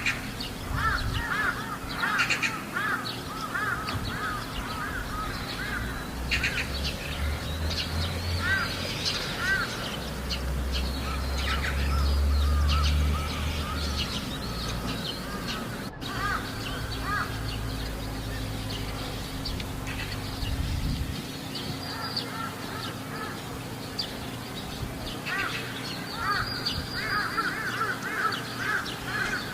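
Crows cawing in quick runs of short, repeated calls, thickest in the first ten seconds and again near the end. A low rumble underlies the middle stretch.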